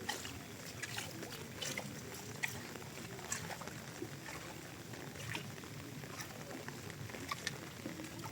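Rain falling steadily, with individual drops landing as irregular sharp ticks.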